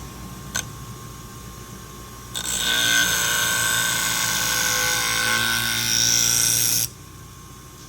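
Scissor blade being ground against a spinning 240-grit diamond wheel on a scissor-sharpening machine. A loud grinding with high ringing tones starts about two and a half seconds in and stops abruptly near the end. A steady motor hum and one small click come before it.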